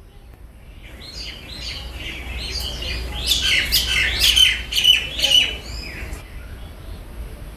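A bird calling: a quick series of short, high, downward-sliding chirps that grows louder, peaks in the middle and stops about six seconds in.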